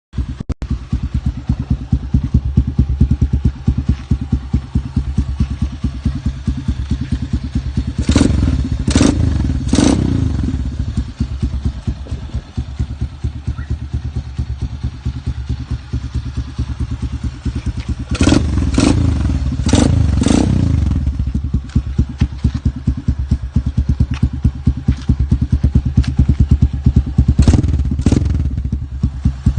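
Motorcycle engine running at a steady, fast, even idle pulse, broken by short sharp loud bursts in clusters: three about eight seconds in, four around eighteen to twenty seconds, and two near the end.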